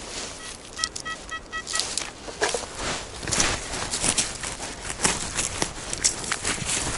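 Footsteps and rustling in dry forest leaf litter and twigs, with crackles and snaps throughout. Near the start there is a short run of about five evenly spaced, pitched beeps.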